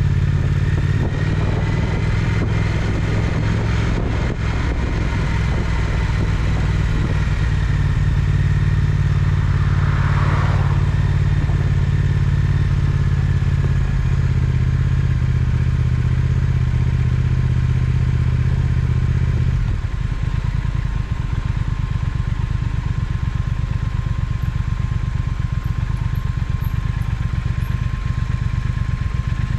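Triumph Speed Twin parallel-twin engine running steadily under way, then about two-thirds of the way through dropping to a quieter, evenly pulsing note as the bike slows or idles. A brief whoosh, like another vehicle passing, comes about a third of the way in.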